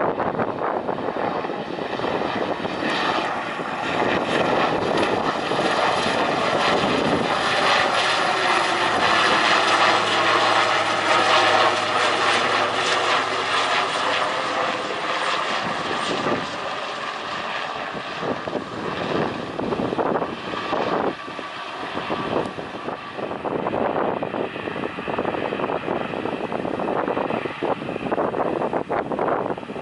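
Airliner engines running as the aircraft goes past, loudest about ten to twelve seconds in, with a low hum and whining tones that bend in pitch as it passes, then easing off.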